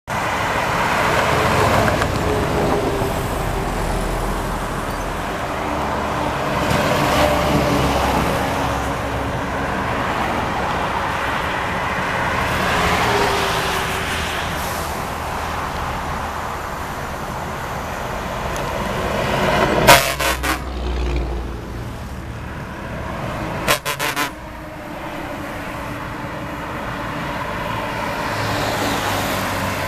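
Heavy trucks running past on a highway with steady engine and road noise, sounding their horns several times. There are a few sharp cracks about two-thirds of the way through.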